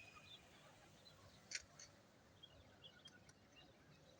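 Near silence, with a few faint, scattered bird chirps and one soft click about one and a half seconds in.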